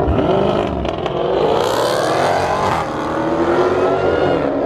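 Car engine revving hard, its pitch climbing for nearly three seconds, then dropping and holding a steady lower note.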